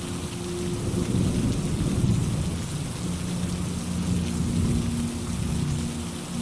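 Steady rain with a low rumble of thunder that swells about a second in, peaks around two seconds and slowly fades.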